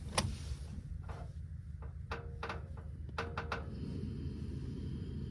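A handful of light knocks and clunks, some in quick succession about two and three seconds in, over a steady low rumble.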